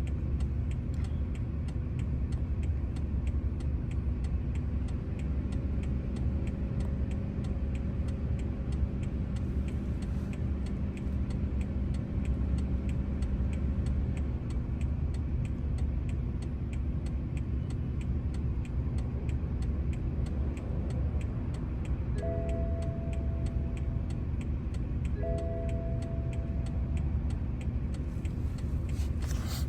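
A steady low hum with a fast, even ticking running through it. Near the end come two short beeps about three seconds apart, then a brief click.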